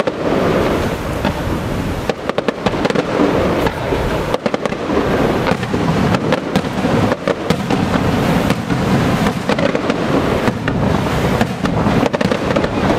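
Aerial fireworks going off in a continuous barrage, with many bangs and a dense crackling from glittering crackle-star shells.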